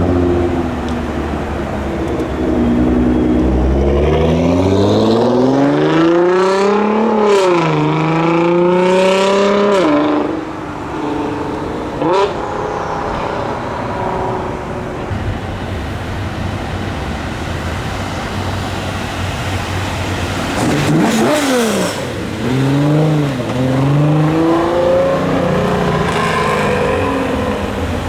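Car engines revving and accelerating hard, the pitch climbing with a dip at a gear change. The loudest run lasts through the first ten seconds or so, and more revving cars follow in the second half.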